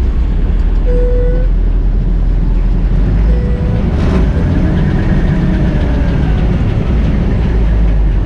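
Combine harvester running steadily with a loud low rumble, with two short squeaks about one and three and a half seconds in.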